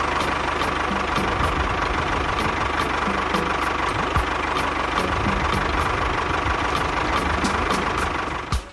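Small engine running steadily, cutting off suddenly near the end.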